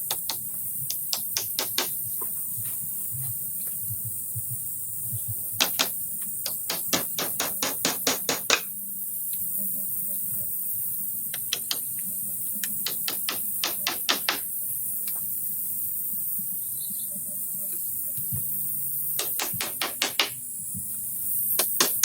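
Repeated hammering blows with a hand tool, struck in five quick runs of several strikes each at about three to five a second, over a steady high hiss.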